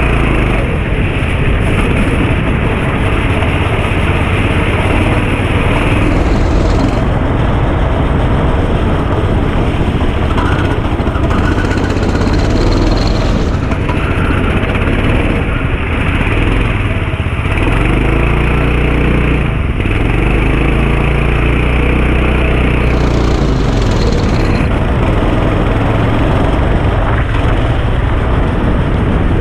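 Kart engine heard from on board, running hard at high revs with its pitch repeatedly rising and falling as the driver accelerates and lifts off. A rushing hiss rides over the engine and comes and goes.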